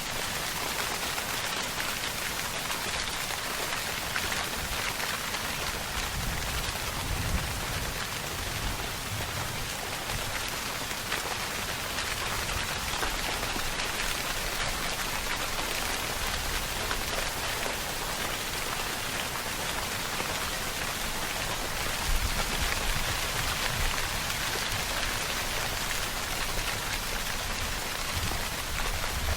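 Steady rainfall, a dense even hiss of drops on surfaces. Twice, a short low rumble swells up under the rain.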